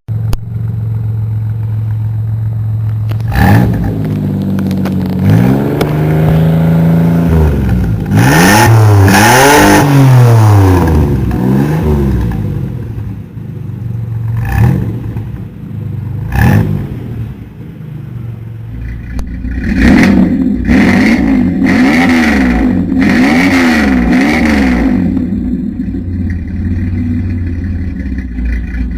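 The 2.8-litre V6 of a 1987 Camaro, heard through its exhaust, idling steadily and then revved again and again. There are long rises and falls in pitch, a few sharp single blips, and a run of quick revs near the end before it settles back to idle.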